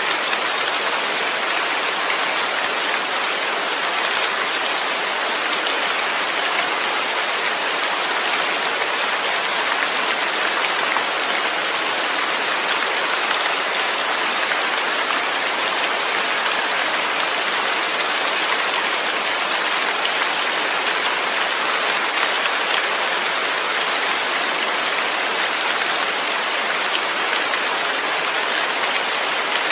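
Steady rain falling, an even hiss of many drops with no breaks or gusts.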